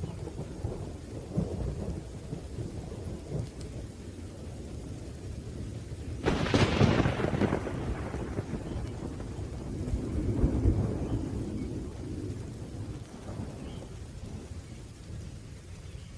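Thunderstorm with rain and low rolling thunder. About six seconds in a sharp thunderclap cracks and dies away over a second or two, and a second, softer roll of thunder swells around ten seconds in.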